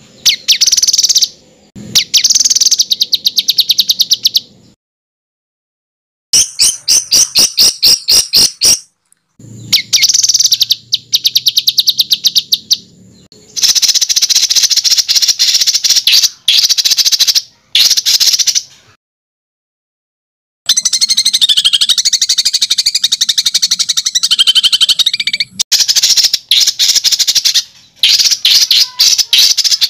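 Songbird song of harsh, rapid repeated notes and fast trills, the 'tembakan kasar' (harsh shots) style used to tutor competition songbirds. It is broken by two short silences.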